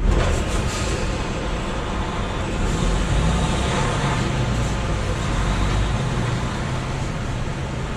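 Semi truck running with a steady low engine rumble and mixed road or yard noise, heard from the truck.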